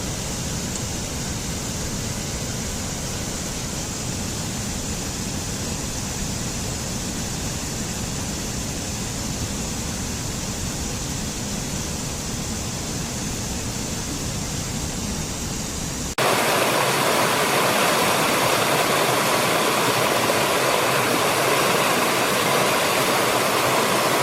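Steady rushing water, such as a stream or waterfall, with a deep, bass-heavy sound. About two-thirds of the way through it cuts suddenly to a different, louder and brighter hissing water recording.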